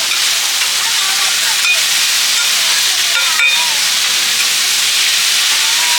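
Seafood omelette batter frying in hot oil, a loud steady sizzle, with two light clicks of a utensil against the pan about a third and halfway in.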